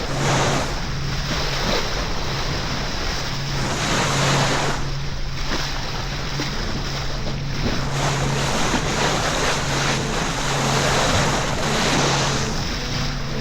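Wind buffeting the microphone and sea water rushing past a sailboat under way, the rush swelling and easing every few seconds, with a steady low hum underneath.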